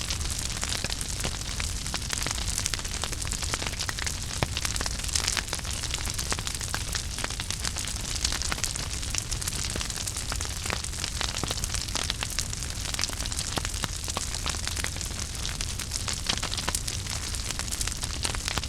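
Wood fire burning in a fireplace: steady crackling with many quick pops over a soft hiss and a low rumble of flames.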